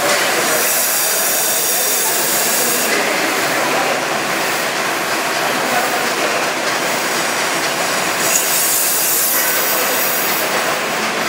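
Brushless car wash machine running, with a steady hiss of water spray; the high hiss swells and eases a few times.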